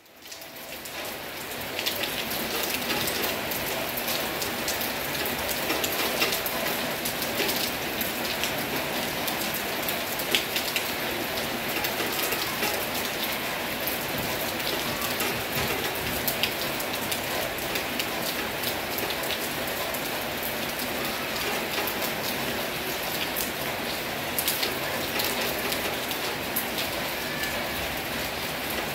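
Heavy rain falling steadily: a dense hiss with many separate drops striking close by. It fades in over the first two seconds.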